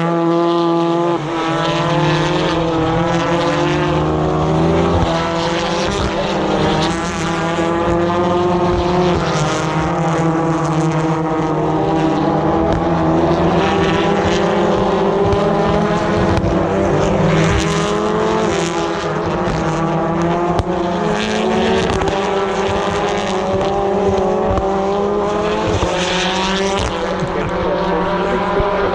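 British Touring Cars' turbocharged two-litre four-cylinder engines racing past one after another, their notes overlapping continuously. The pitch rises and falls as the cars brake, change gear and accelerate through the corners.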